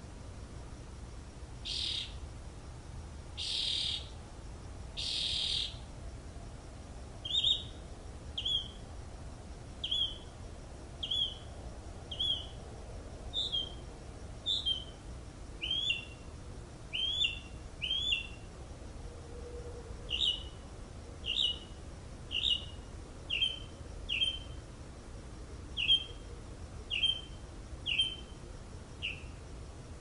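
A bird calling: three harsh, raspy calls in the first few seconds, then a long run of short, clipped chirp notes repeated about once a second.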